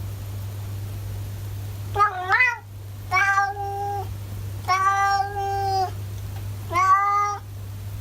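Domestic cat meowing four times in a row, drawn-out talkative meows; the first wavers up and down in pitch, the next ones are held steady.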